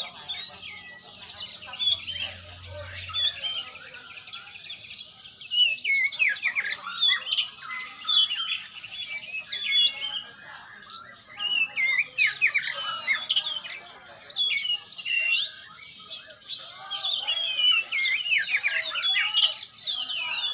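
Oriental magpie-robin (kacer) singing: a long, dense run of quick whistles and chirps that swoop up and down, hardly pausing.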